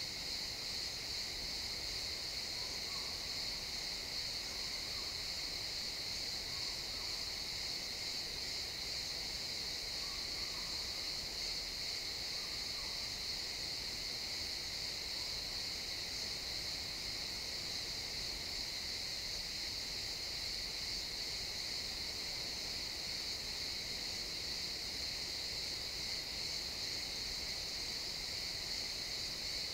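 Chorus of crickets chirping, a dense, steady high-pitched trill without a break.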